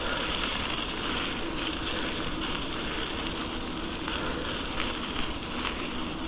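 Steady wind rush over the camera microphone while riding a bicycle, with the hiss of the tyres on the path.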